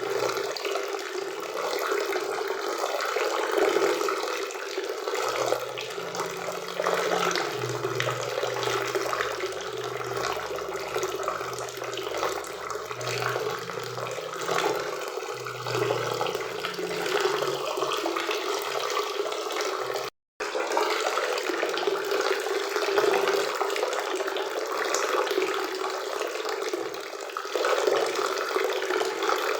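Waterfall and river water rushing steadily, a constant even roar of falling and flowing water. It cuts out for a split second about twenty seconds in.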